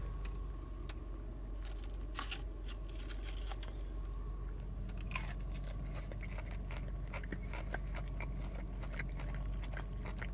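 Close-up chewing and crunching of crispy fried chicken: scattered crackles and crunches over a steady low hum.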